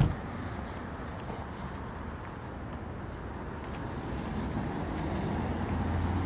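A car engine idling, a steady low hum that grows louder near the end, over a background of outdoor air noise. A brief sharp click comes right at the start.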